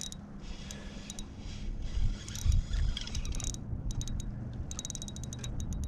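Fishing reel clicking in quick, irregular runs as a hooked bass is fought, with a couple of dull knocks about two and a half seconds in and a faint low hum underneath.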